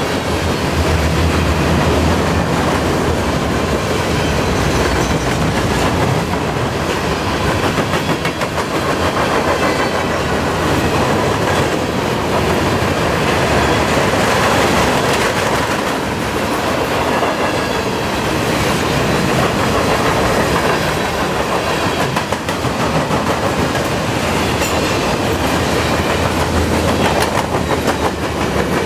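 Freight cars of a long CN freight train rolling past in a steady rumble, their wheels clacking over the rail joints.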